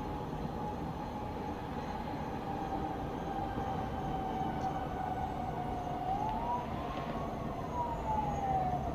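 A distant siren wailing, its pitch sliding slowly down, then rising and falling once near the end, over a steady low rumble of town traffic.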